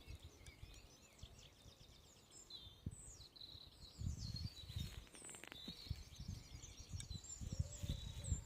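Small songbirds chirping and warbling in quick, repeated phrases, faint. Low rumbling bursts come about four seconds in and again near the end.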